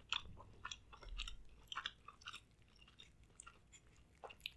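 A person chewing seafood close to the microphone: faint, irregular wet mouth clicks and smacks.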